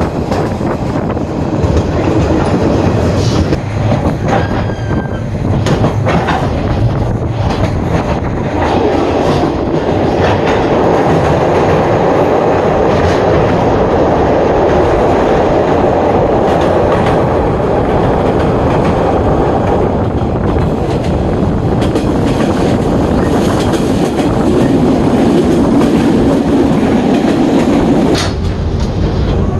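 Passenger train running along the track, heard from on board: a steady rumble of wheels on rail, with rhythmic clicks as the wheels pass over rail joints.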